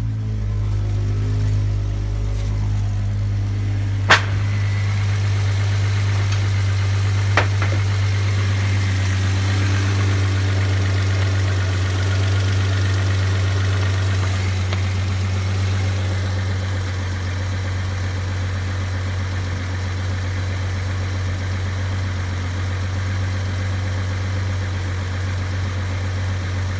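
Audi 2.6-litre ABC V6 engine idling steadily. Two sharp clicks are heard, about four and seven seconds in.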